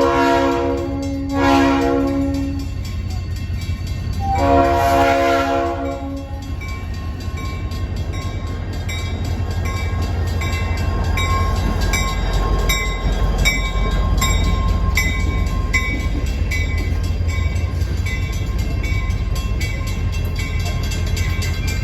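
Train horn sounding three blasts, two close together and then a longer one, over the low rumble of the train. A bell then dings steadily at about one and a half strikes a second, as at a grade crossing.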